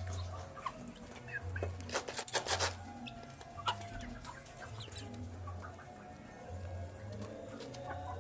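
Baby chicks cheeping in short, scattered calls while they feed, with a burst of loud clicks and rustling about two seconds in.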